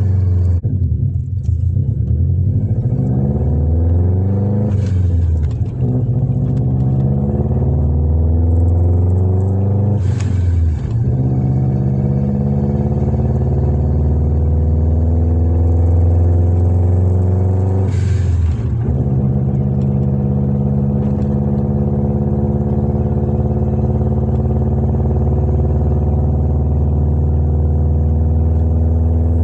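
Subaru Impreza WRX turbocharged flat-four engine pulling through the gears. Its pitch climbs and drops back three times, then it holds a steady cruise from about two-thirds of the way in.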